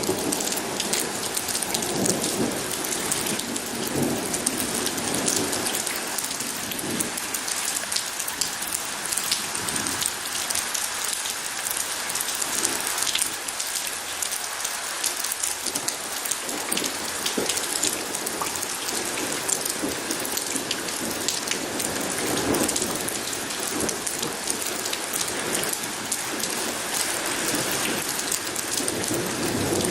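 Steady heavy rain falling on a surface, with dense individual drop splashes. Low rumbles of distant thunder swell now and then, several times.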